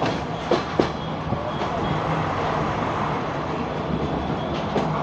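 Passenger train running on the rails, heard at an open carriage window: a steady rumble and rattle of the wheels and running gear, with two sharp clacks in the first second.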